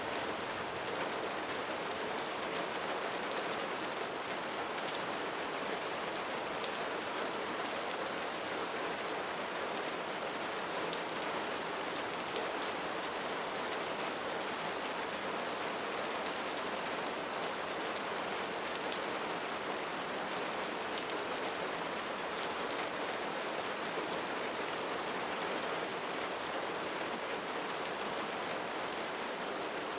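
Steady rain falling on leaves: a dense, even hiss with scattered sharper drop ticks.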